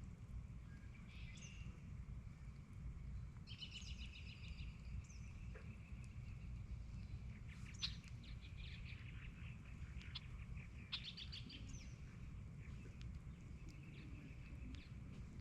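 Birds chirping and calling in several short bursts, over a steady low rumble and a faint continuous high tone.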